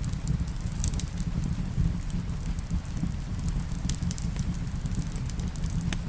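Wood fire crackling, with scattered sharp pops and clicks, over a steady low rush of rain.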